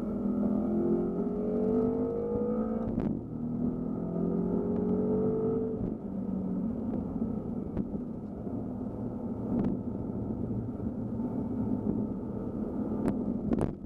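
BMW M5 F10's twin-turbo V8 heard from inside the cabin, rising in pitch twice under acceleration, with a short break about three seconds in where it shifts up, then running at a steadier pitch. A few sharp clicks near the end.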